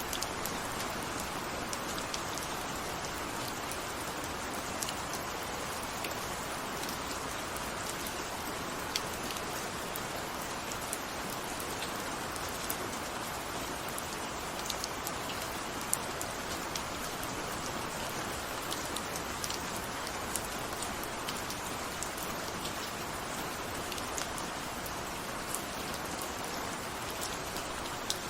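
Steady rain falling on a surface, an even hiss with scattered sharp individual drop ticks.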